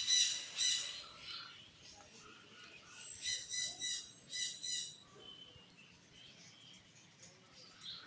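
Caged birds calling: runs of short, high, chirping calls at the start and again from about three to five seconds in, with quieter calls between.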